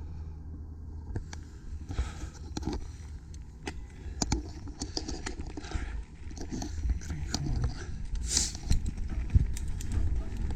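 Steady wind rumble on the microphone, with irregular clattering knocks and rattles on top that get busier and louder over the second half.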